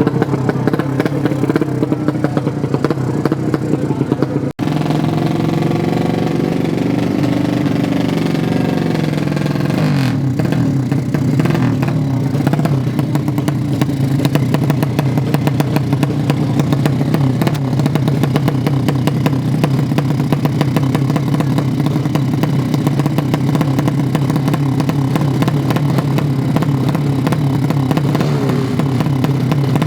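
A 200cc sleep-engine drag-racing motorcycle running loud at high revs, its pitch wavering and climbing in places. The sound drops out for an instant about four and a half seconds in.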